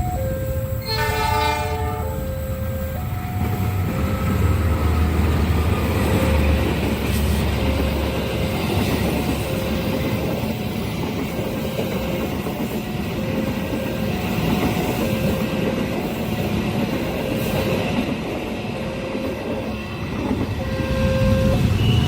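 A train passing a railway level crossing: a short horn blast about a second in, then the steady rumble and wheel clatter of the passing cars. Over it, the crossing's electronic warning bell repeats its alternating two-tone chime about once a second.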